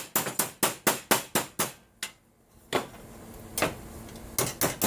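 Hammer tapping on an aluminum brace to shape it: a fast run of sharp taps, about five a second, for nearly two seconds, then a pause and a few scattered single taps.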